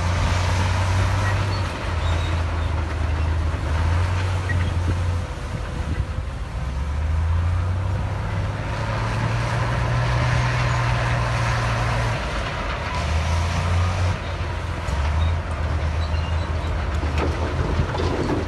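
Heavy diesel earthmoving machinery running under load: a low engine drone that shifts up and down in pitch over a constant mechanical clatter, with a few sharp knocks near the end.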